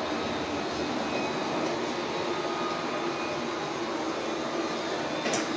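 Robot vacuum cleaner running with a steady whirring motor and brush noise, with a short click near the end.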